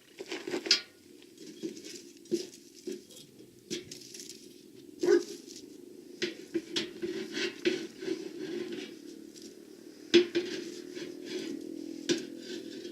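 Wood fire being stoked by hand: irregular knocks and clatter of wood and metal, with the sharpest knocks about five and ten seconds in.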